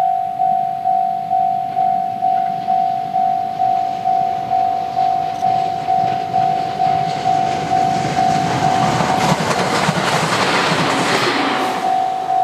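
A level-crossing bell rings steadily about twice a second while an Aoimori Railway 701-series electric train approaches and passes. The train's rumble and wheel noise grow from about six seconds in, are loudest around ten seconds in, and briefly drown out the bell.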